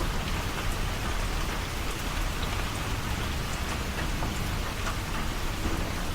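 Steady rain falling, a constant patter of drops on outdoor surfaces.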